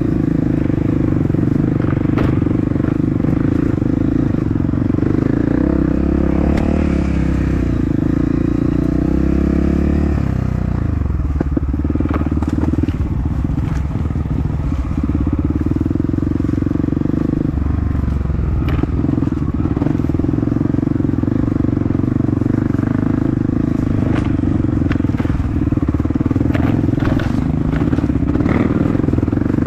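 Off-road motorcycle engine running steadily. Its revs dip and come back up between about ten and seventeen seconds in, with scattered knocks and clatter over it.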